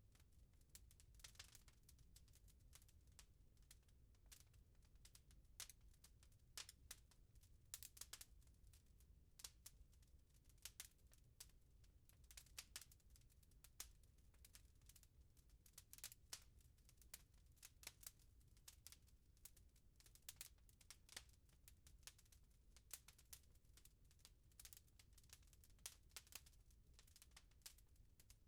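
Fireplace fire crackling quietly, with irregular sharp pops and snaps over a soft low rumble.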